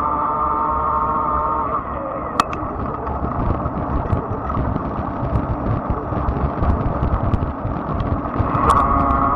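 Fat-tire e-bike's electric motor whining steadily under power. It cuts out about two seconds in, leaving the rumble of tyres and wind with scattered sharp ticks, and the whine comes back near the end.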